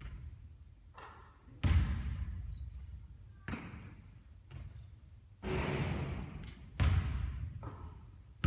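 Basketball bouncing and striking hard surfaces, a string of about eight irregular, echoing thuds. The loudest come about a second and a half in and again near the end.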